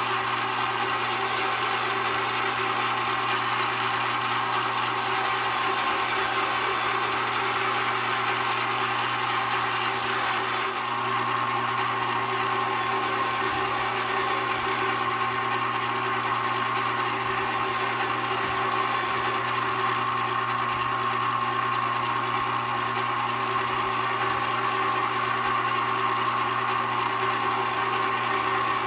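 A 1 HP, 1100-watt #22 electric meat grinder running steadily under load as meat is fed through it, a constant motor hum.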